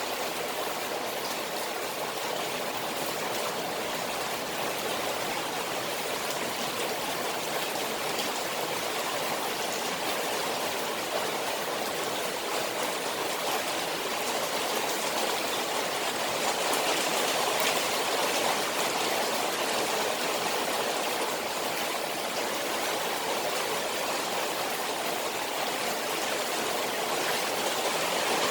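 Rain falling on a koi pond, a steady wash of water noise that swells a little about two-thirds of the way through.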